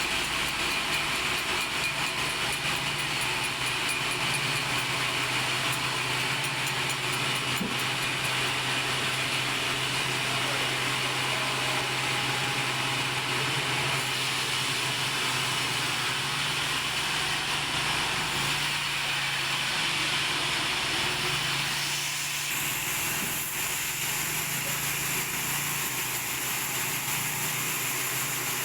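Sawmill machinery running steadily: a motor hum under the hiss of a saw working through wood. The sound shifts about 22 seconds in, the high hiss thinning and the level dropping slightly.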